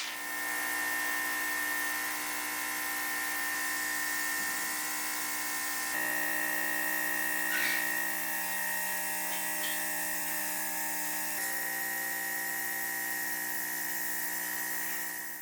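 Small high-speed electric motor, like a handheld rotary tool, running with a steady high whine. It starts and stops abruptly, and its pitch shifts slightly about six seconds in and again near eleven seconds.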